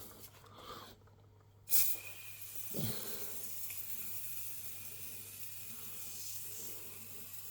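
Aerosol cleaning foam spraying in a steady hiss, starting with a sudden loud burst just under two seconds in, as the foam is laid over soot-covered fireplace glass.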